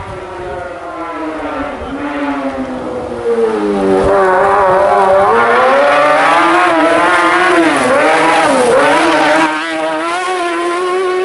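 Rally car engine at high revs, its pitch wavering up and down with the throttle, growing louder over the first few seconds and dropping away near the end.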